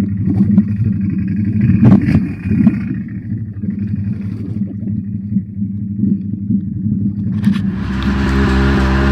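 ATV engine running with uneven throttle, the revs rising and falling. About eight seconds in, the engine settles to a steady, higher note and a loud rushing hiss comes in over it.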